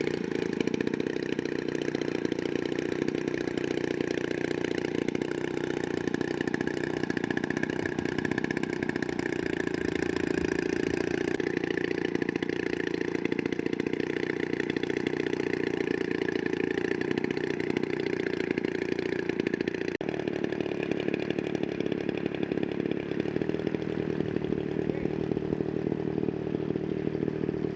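Small model-airplane combustion engine running steadily at a fairly constant speed.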